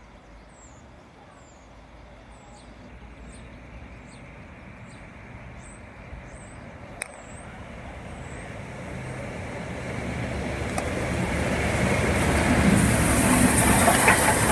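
Train approaching and passing close at speed: a West Coast Railways diesel locomotive hauling the steam locomotive 60163 Tornado, a Peppercorn A1 Pacific, under tow. The sound grows steadily from a faint distant rumble to a loud rush of running gear and wheels on rail over the last few seconds.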